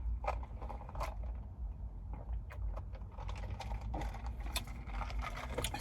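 Light, irregular clicks and taps of handling, over a low steady rumble.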